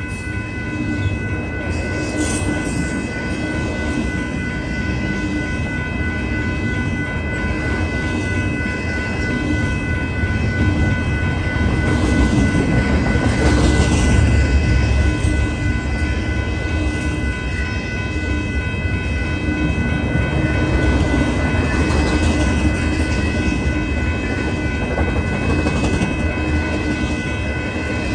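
Union Pacific double-stack container train rolling past at speed: a continuous rumble of wheels and well cars on the rails, swelling loudest about halfway through. Steady high-pitched ringing tones sound over the rumble.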